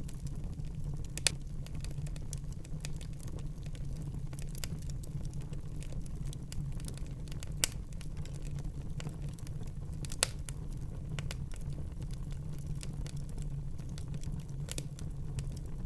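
Wood fire burning in a fireplace, with a steady low rumble and sparse crackles. Three sharp pops stand out, about a second in, about eight seconds in and about ten seconds in.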